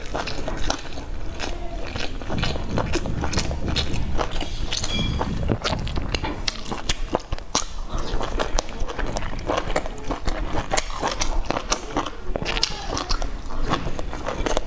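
Close-miked wet chewing and lip smacking while eating soft steamed dumplings: a dense, irregular run of clicky mouth noises.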